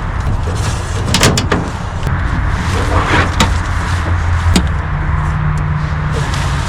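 Sharp clicks and knocks of a single-person tent being set up, its metal poles and clips handled, over a steady low rumble.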